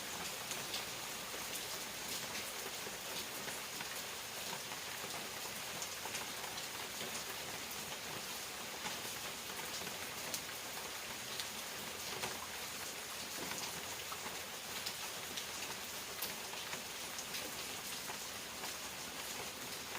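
Steady rain falling, with many small drops tapping on surfaces.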